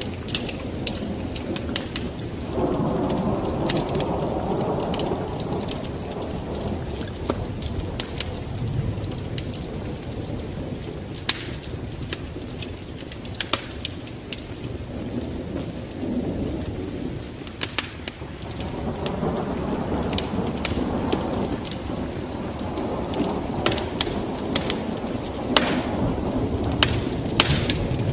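Wood fire in a fireplace crackling with frequent sharp pops over a steady low rushing, which swells louder twice.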